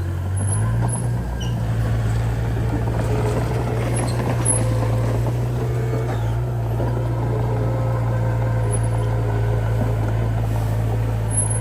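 Diesel engine of heavy earthmoving equipment running steadily under load, with a low, even hum that barely changes pitch.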